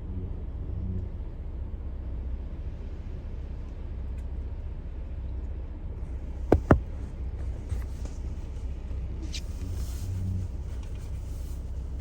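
A vehicle engine running with a steady low rumble, with two sharp clicks a little over six seconds in.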